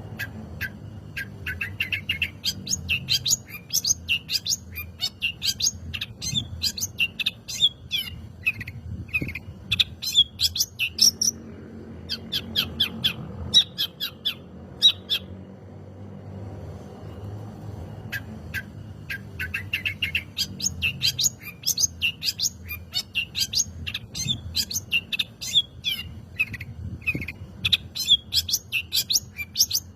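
Long-tailed shrike (cendet) singing a fast chattering song of rapid high notes. The song comes in phrases several seconds long, with a pause of about two seconds around the middle.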